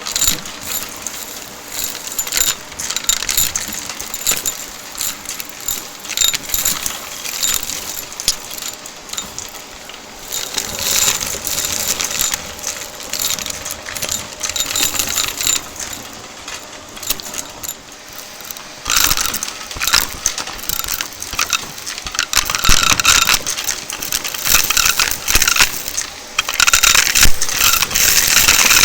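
Shark vacuum cleaner running and sucking up crunchy debris, with dense rattling clicks as the bits go up the hose. The crunching gets louder and busier about two-thirds of the way through.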